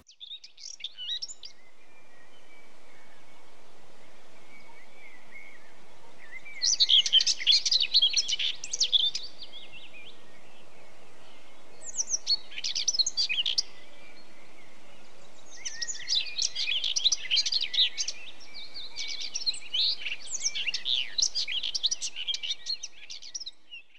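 Small birds chirping and twittering in quick, dense bouts, about four of them with pauses between, over a steady faint background noise.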